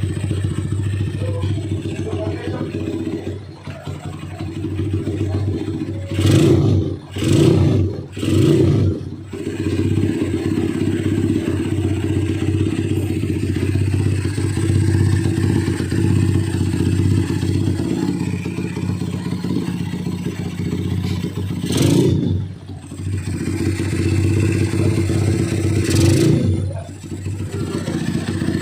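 Honda Megapro's single-cylinder four-stroke engine idling through a CTS capsule aftermarket muffler, with a dense bass exhaust note. The throttle is blipped three times in quick succession a few seconds in, then twice more later on.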